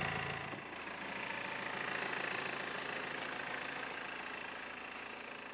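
Car engine idling: a steady, even running noise with little deep rumble.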